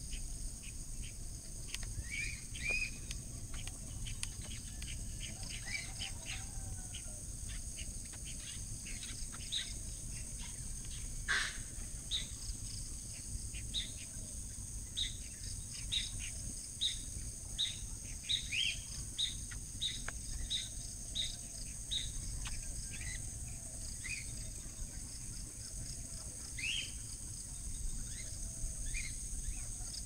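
Birds chirping in leafy undergrowth: many short, high chirps and a few quick rising calls, with a run of evenly repeated chirps a little more than one a second through the middle. Under them runs a steady high-pitched buzz.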